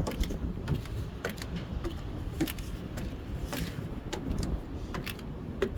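Footsteps climbing a flight of stairs, short steps about every half second, over a low rumble of handling or wind noise.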